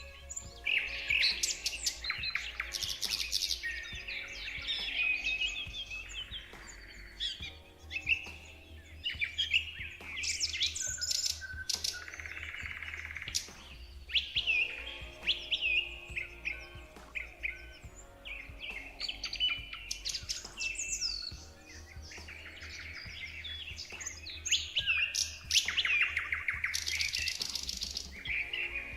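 Several songbirds chirping and singing together: short rising and falling whistled notes overlapping, with fast trills about three seconds in and again near the end.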